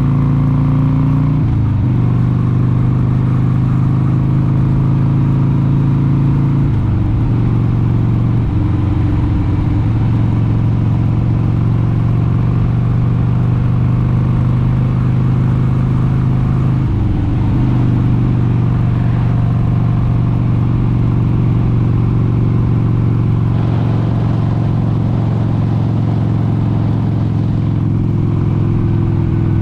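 1996 Harley-Davidson XLH883 Sportster's air-cooled 883 cc V-twin running steadily while riding at cruising speed. Its note dips and shifts pitch briefly a few times, near the start, twice around a third of the way in, and just past halfway, then holds steady.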